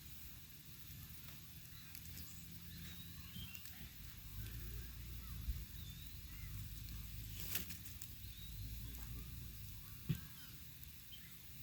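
Campfire crackling, with three sharp pops and a steady low rumble, under faint honking calls of geese.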